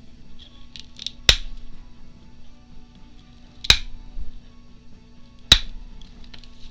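Three sharp clicks about two seconds apart, with fainter small ticks between, as a pointed tool picks at the wrapped journal spine, pulling cloth and fibres loose.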